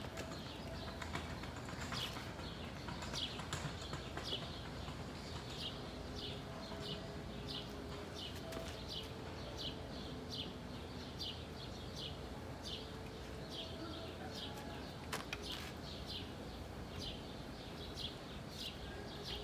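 A bird chirping over and over, short high chirps at a steady pace of about one or two a second.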